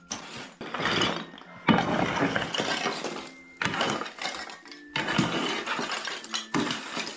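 Rubble and debris being scooped and scraped up for loading into carrying baskets: a series of five or so long, gritty scrapes with clinks.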